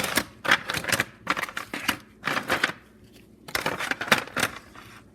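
Pieces of hard peanut brittle clattering and cracking, in about six bursts of rapid sharp clicks with short pauses between.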